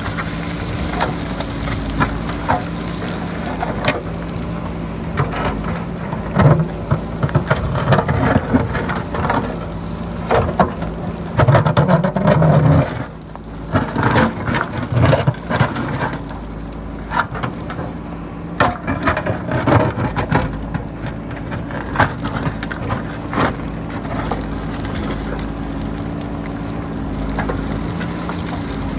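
JCB backhoe loader's diesel engine running steadily while its bucket digs into the rocky hillside, with rock and stones knocking and clattering irregularly through the middle and a loud stretch of heavy grinding about halfway through.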